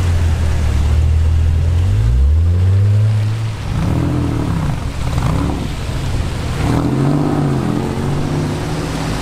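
Porsche 996 911 Carrera 4S flat-six engine running at low revs, then revved: a rising pull about two seconds in, followed by several quick rev blips that rise and fall, over a steady hiss of tyres on a wet road.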